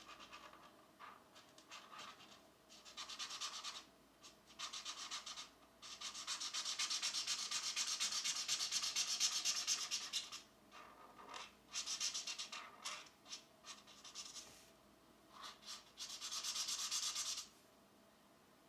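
Pencil shading on coloring-book paper: runs of quick back-and-forth scratchy strokes with short pauses between them, the longest run about four seconds. The coloring stops a little before the end.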